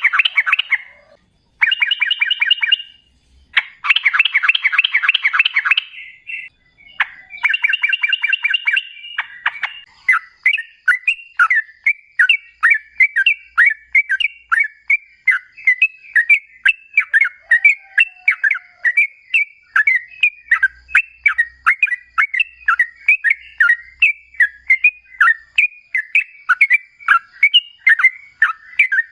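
Yellow-vented bulbul (trucukan) singing: a few bursts of rapid chattering in the first ten seconds, then a long unbroken run of short, bubbly notes at about two a second.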